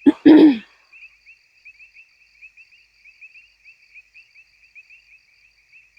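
Crickets chirping in a steady, finely pulsing trill that goes on without a break, after a short burst of a voice right at the start.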